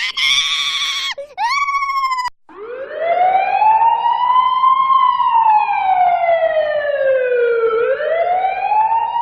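Siren-like wailing sound effect: a pitched tone slides up, sinks slowly, then climbs again near the end. It is preceded in the first two seconds by a short wavering buzz and a quick up-and-down chirp.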